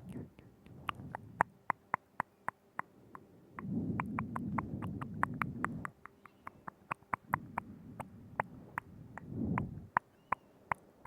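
Wet mouth sounds right at a binaural microphone: a long run of sharp tongue clicks and lip smacks, irregular at about two to three a second, with two stretches of softer low mouth noise between them.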